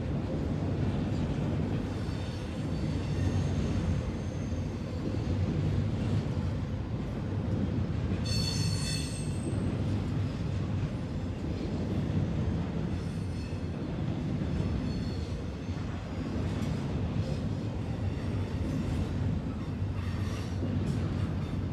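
Double-stack intermodal freight train's cars rolling past: a steady rumble of steel wheels on the rails, with a brief high wheel squeal about eight seconds in and fainter squeals now and then.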